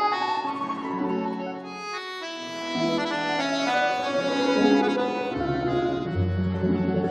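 Instrumental interlude of a song played on accordion: a melody line over chords, with bass notes coming in about five seconds in.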